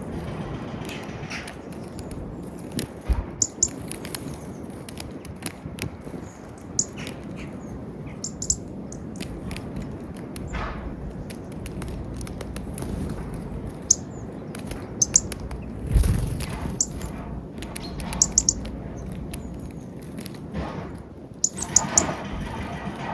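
Small wild birds chirping with short, high calls every few seconds, with scattered sharp taps over a steady low background.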